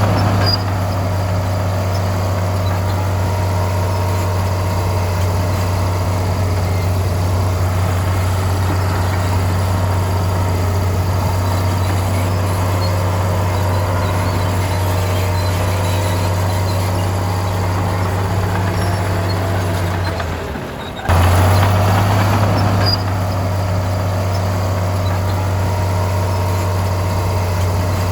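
Heavy bulldozer's diesel engine running steadily with a low drone. It fades out briefly about twenty seconds in, then cuts straight back in.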